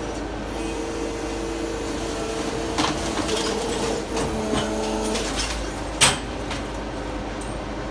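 Brokk remote-controlled demolition machine running, its motor and hydraulic pump giving a steady hum and whine that shifts pitch about five seconds in. A few knocks are heard, and one sharp bang about six seconds in.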